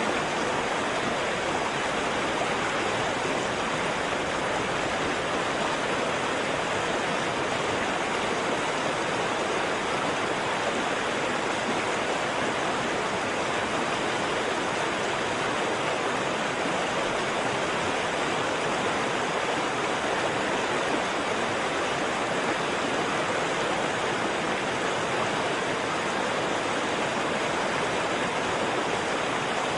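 Waterfall: water falling and rushing in a steady, unbroken hiss, with no separate splashes or breaks.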